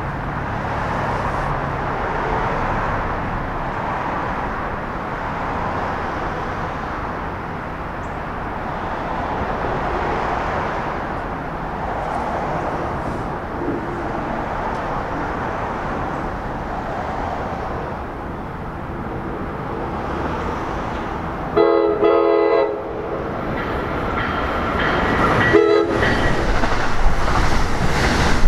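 A train's steady rushing rumble on the rails, then a train horn sounding one blast of about a second and a short second blast. The rumble grows louder near the end as a train comes closer.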